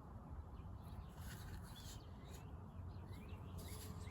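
Faint bird chirps, short upward-sliding calls repeating every second or so, over a low steady hum.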